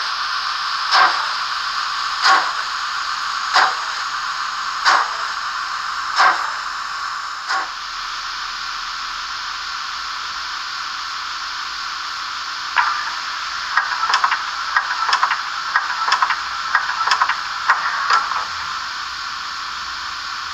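Simulated steam sound from the Märklin 37563 H0 model Class 56.2-8 steam locomotive's sound decoder. Slow chuffs about every 1.3 s sound over a steady hiss and stop about 7 seconds in. The hiss then runs on alone, and from about 13 seconds in a run of irregular clicks and knocks joins it for about five seconds.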